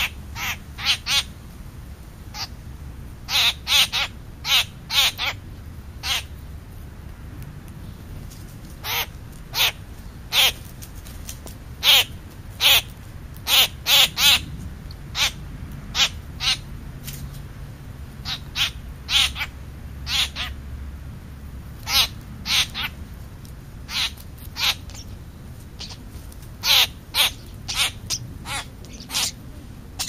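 Dark, blackbird-sized birds at a ground feeding spot giving harsh, short caw-like calls. The calls come unevenly, often in quick runs of two or three.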